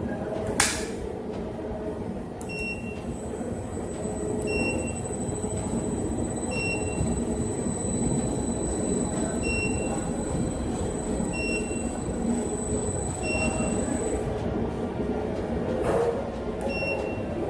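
Industrial washing machine running with a steady rumble. A short electronic beep repeats about every two seconds from a couple of seconds in, over a faint high whine. There is a sharp click near the start and another near the end.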